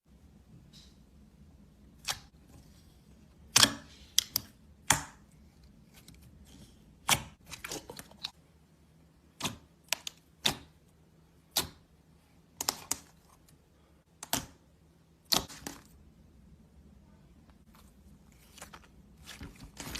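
Slime being handled and pressed: sharp, scattered clicks and pops, irregular and spaced about a second apart.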